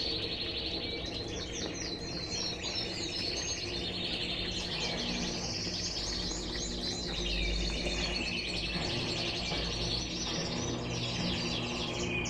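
A chorus of birds chirping continuously, the loudest sound, over the low steady hum of an Electrolux LTE12 washing machine's drain pump as it finishes draining the rinse water.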